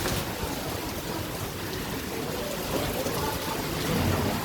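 Heavy rain pouring down in a thunderstorm, a steady hiss of water.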